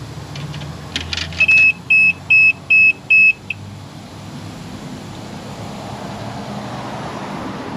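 An electronic beeper sounds five short, evenly spaced high beeps, about two a second, right after a few clicks. Afterwards a steady rushing noise grows louder.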